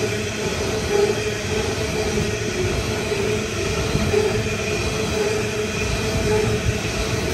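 Coal train's hopper wagons rolling past, steel wheels rumbling on the rails with a steady ringing tone and a few louder knocks.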